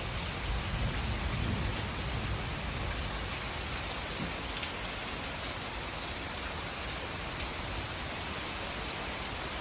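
Steady rain falling during a thunderstorm, an even hiss of rain with scattered drops ticking, and a low rumble in the first couple of seconds that then eases off.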